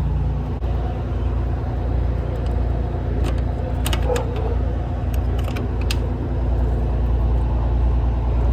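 1984 Pierce Dash fire engine's engine idling with a steady low drone, with a few light metallic clicks and rattles about halfway through.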